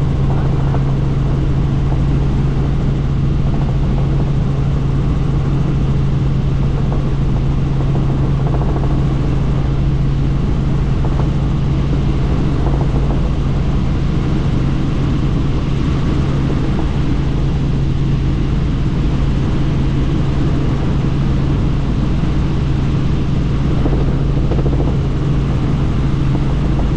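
Helicopter in steady cruising flight heard from inside the cabin with the doors off: a constant low hum under a loud, even rush of wind and engine noise.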